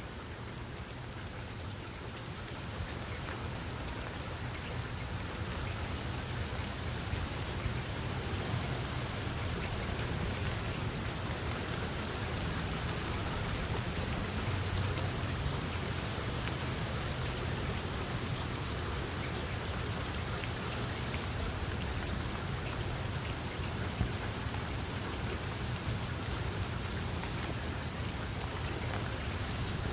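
Steady rain falling, an even hiss with a low rumble underneath. It grows a little louder over the first several seconds, then holds steady.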